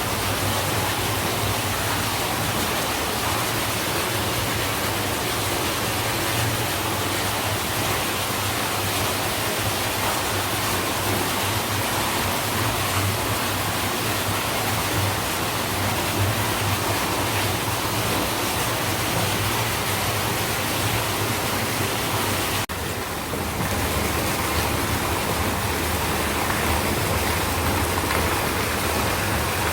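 Hot-spring water pouring and splashing steadily into a bath, a continuous rushing of falling water, with a brief break about two-thirds of the way through.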